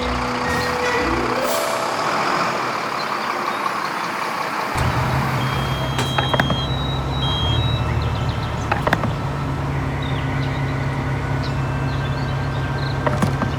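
A truck engine running steadily, starting about five seconds in, with a few short high beeps and sharp clicks over it. Before it, a short jingle climbs in pitch.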